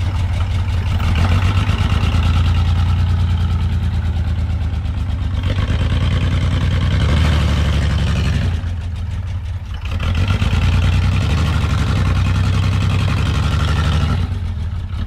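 Chevy S10 pickup's engine held at high revs, easing off briefly about two-thirds of the way through and again near the end. It is running with no oil pressure.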